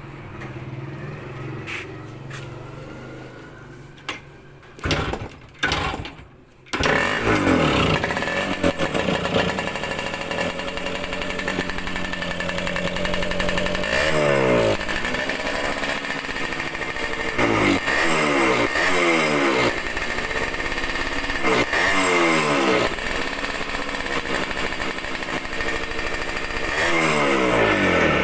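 Yamaha RS 100 single-cylinder two-stroke engine catching after a few short bursts, then revved again and again, its pitch rising and falling every two to three seconds.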